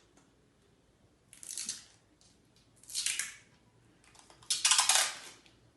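Adhesive tape being pulled off the roll in three short rasping strips. The third is the longest and loudest.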